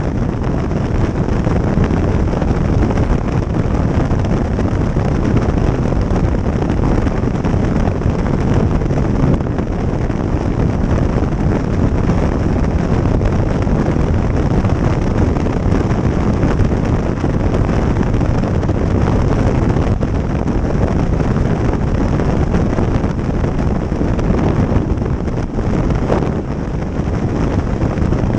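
Steady wind rush buffeting the microphone of a motorcycle riding at speed, with the bike's running and road noise underneath.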